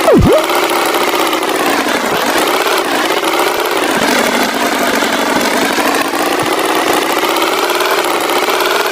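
Cartoon tractor engine sound effect running steadily. Right at the start comes a short, loud swoop that drops and climbs back in pitch.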